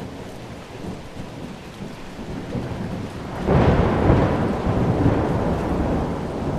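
Thunderstorm: steady rain with a roll of thunder that swells suddenly about three and a half seconds in and slowly fades.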